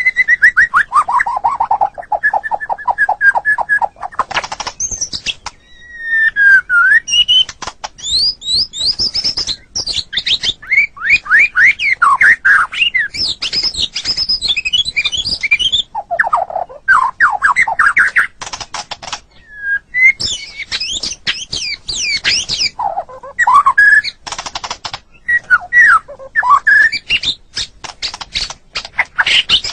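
White-rumped shama (murai batu) singing a long, varied song: falling whistles and rapid runs of repeated notes, with pauses between phrases. Near the end it breaks into a fast string of clicking, chattering notes.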